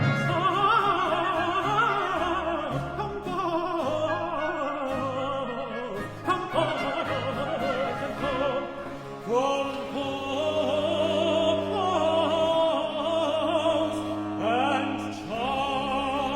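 Baroque aria: a countertenor sings long, wavering melodic runs over an orchestra with trumpets.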